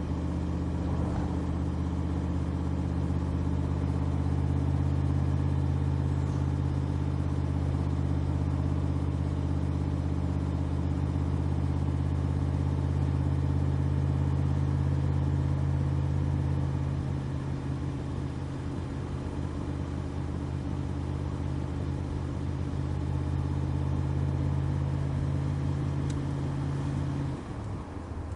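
Backdraft RT3 roadster's 427 V8 crate engine running at steady revs, a deep even drone that eases slightly a bit past halfway. About a second before the end the engine note drops abruptly as the revs fall.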